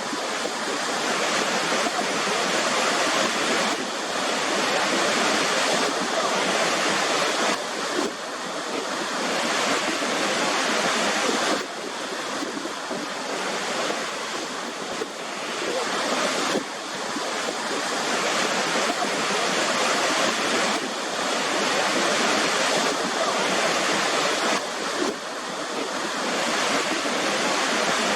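Waterfall: a steady rush of falling water, with a few sudden small drops in level.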